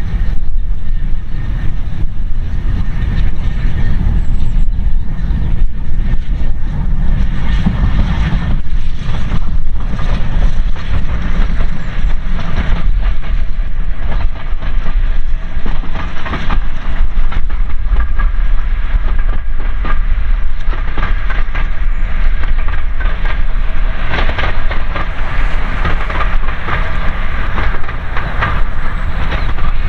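Steam-hauled train running past on the line, its wheels clattering steadily over the rail joints with a continuous heavy rumble, getting somewhat brighter and louder toward the end.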